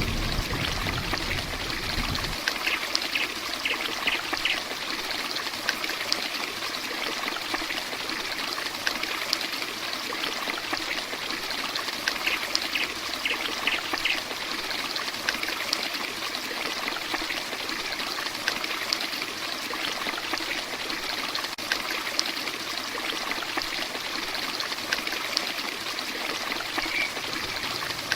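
Heavy rain falling steadily, a dense even hiss like pouring water. A low rumble underneath cuts off about two seconds in, and twice a few faint, short high chirps come through the rain.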